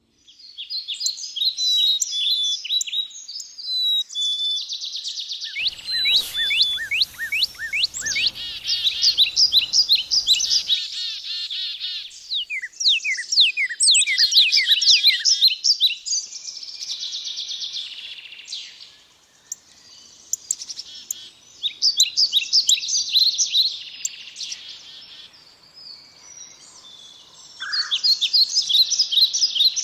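Wild songbirds singing and calling, overlapping bursts of quick, high chirps and trills that come and go in phrases. For about five seconds near the start a faint low background noise runs under the birds.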